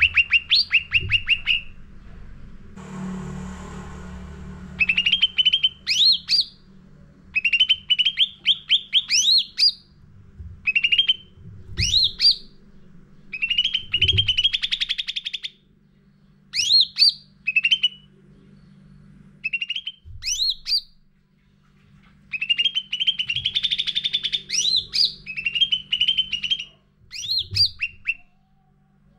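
Cucak ranting singing in repeated short bursts of fast chirps, many phrases ending in sharp upward-sweeping notes, with short pauses between bursts. A low steady hum runs underneath, and a brief hiss comes a few seconds in.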